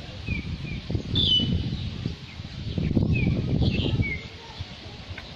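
Small birds chirping outdoors: short, high, downward-sliding notes every second or so. Under them is a louder low rumble that swells about a second in and again around three seconds in.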